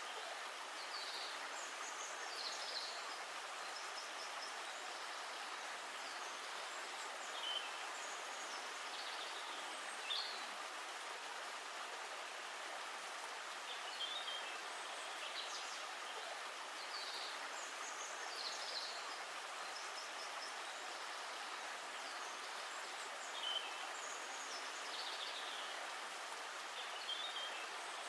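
Steady hiss of running water, with birds chirping briefly now and then above it.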